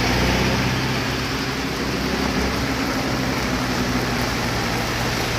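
A heavy vehicle's engine running steadily, with a low even hum under a broad hiss.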